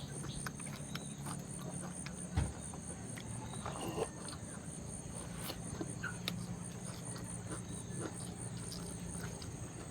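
Close-up eating sounds: chewing with many short wet mouth clicks and smacks, and a low thump a little over two seconds in. Behind them runs a steady chirring of crickets.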